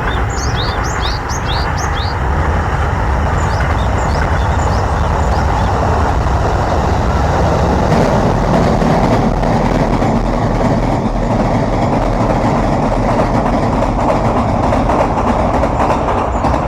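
A Japanese tit gives clusters of short, high chirps in the first few seconds, over a loud, steady rumbling noise that grows a little louder about halfway through and dominates the rest.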